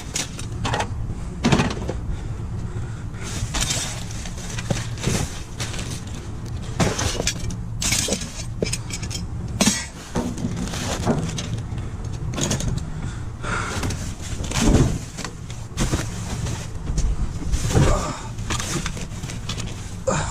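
Irregular clattering and knocking of junk being rummaged through in a dumpster, hard items hitting and sliding against each other, over a steady low hum.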